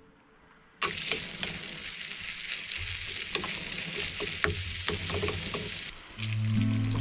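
Food frying in a pan on a Trangia camp stove: a steady sizzle with scattered crackles, starting suddenly about a second in and dropping away about a second before the end. Background music comes in near the end.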